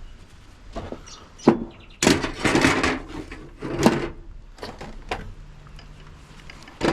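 Hand tools being put away: scattered knocks and clunks, with a longer scraping clatter about two seconds in, like tools sliding into a toolbox or drawer.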